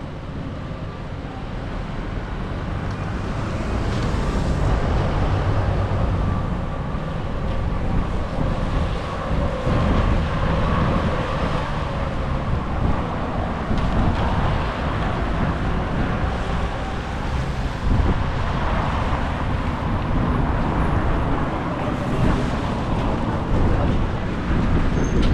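Strong storm wind gusting, buffeting the microphone with an irregular low rumble over a steady rush of air. It builds over the first few seconds, then holds loud.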